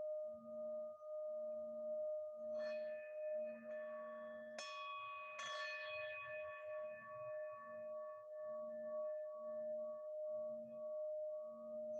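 Singing bowls ringing: a steady, sustained bowl tone with a slow, regular wobble. Three brighter struck tones come between about two and a half and five and a half seconds in, each ringing out and fading over several seconds.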